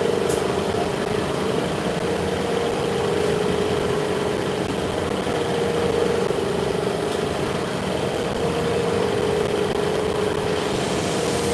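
Shop machinery running steadily: a constant machine hum with a steady mid-pitched tone.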